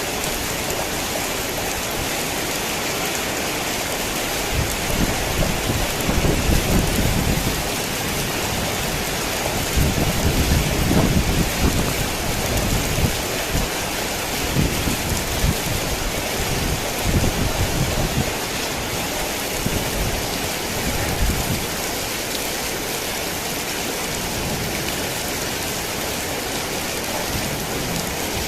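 Heavy rain falling steadily, with low rolling rumbles of thunder coming and going through the middle.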